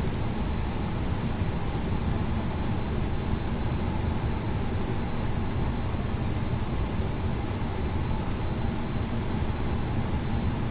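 Steady rumble and hiss of air-conditioning and ventilation inside an Airbus A320neo cabin at the gate, with a faint steady high whine. The engines have not yet been started.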